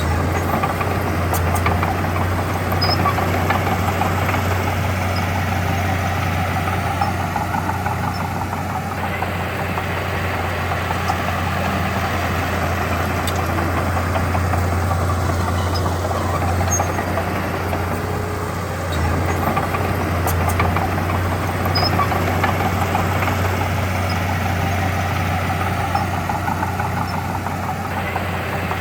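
Heavy diesel engine of an earthmoving machine running steadily, with a strong low hum.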